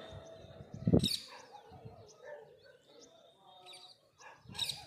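Many small songbirds chirping and trilling in a dawn chorus. A loud sudden sound cuts in about a second in, and a smaller one comes near the end.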